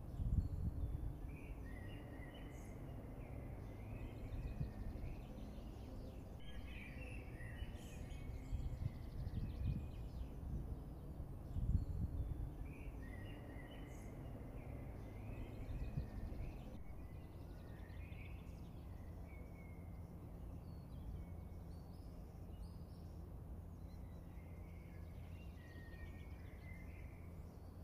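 A songbird singing in short warbling phrases a few seconds long, separated by pauses, over a low steady outdoor rumble.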